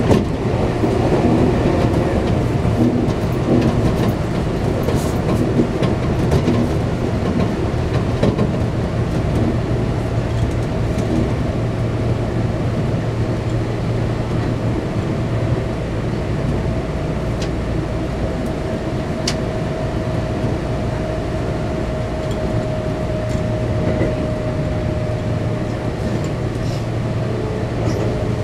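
Running noise inside a Kintetsu electric train car: a steady rumble of wheels on rail under a motor whine that slowly falls in pitch in the second half, with occasional clicks from rail joints. It is a little louder at the start as an oncoming train passes alongside.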